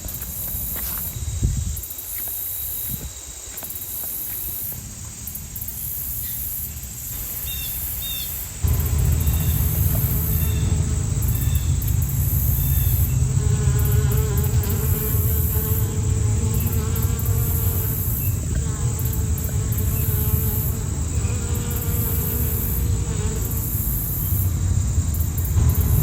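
Crickets chirping in a steady, high-pitched, pulsing trill. About eight and a half seconds in, a loud low rumble suddenly comes in underneath and continues.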